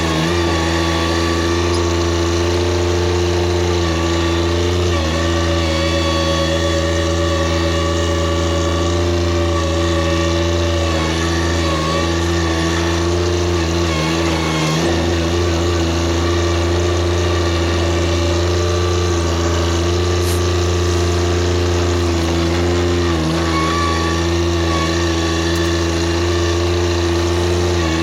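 TYM compact tractor's diesel engine running steadily at working speed, its pitch dipping briefly now and then.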